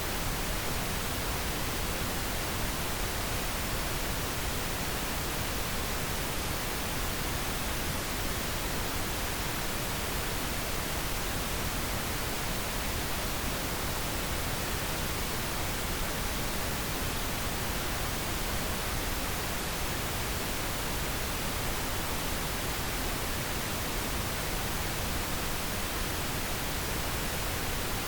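Steady, unbroken pink noise: an even hiss across the whole range, with no changes or other sounds.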